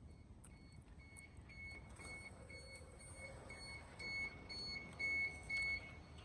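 Train door warning beeps: a rapid series of short high beeps at one pitch, about three a second, louder near the end.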